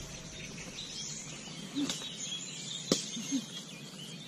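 Faint birdsong over quiet outdoor background, with two sharp clicks about two and three seconds in.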